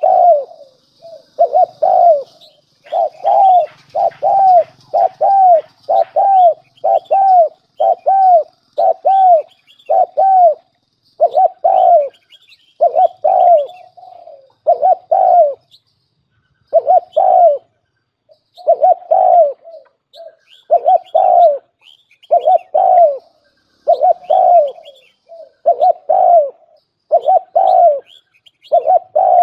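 Spotted dove cooing as a decoy (lure) bird. It gives a long run of short, arched coo notes, roughly one a second with brief pauses between groups. Faint chirps of small birds sound in the background.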